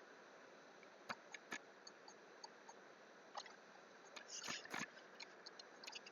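Scattered sharp clicks of a computer mouse and keyboard over a faint steady hiss, with a quick, louder cluster of clicks a little past the middle.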